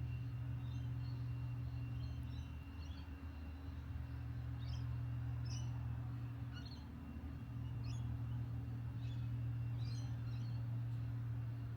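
Robotic lawn mower humming steadily, a low drone with a thin high whine over it, dipping briefly twice. Birds chirp over the hum.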